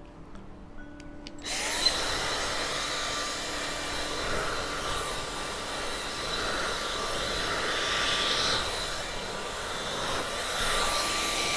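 Gama Italy professional hair dryer with its directional nozzle fitted, switched on about a second and a half in. Its motor whine rises to speed, then it blows steadily with a rushing of air.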